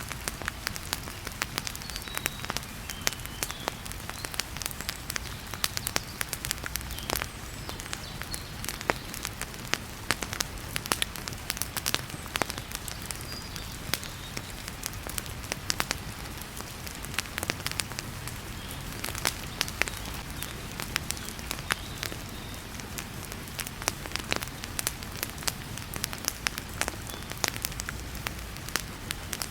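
Wood fire in a fireplace crackling, with many sharp, irregular pops and snaps, over the steady hiss of heavy rain.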